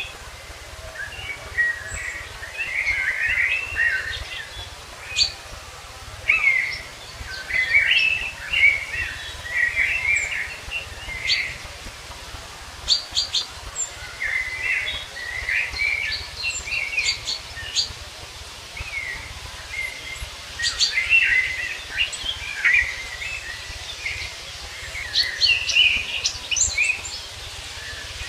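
Songbirds singing and chirping in short bursts of quick phrases, with a low steady rumble underneath.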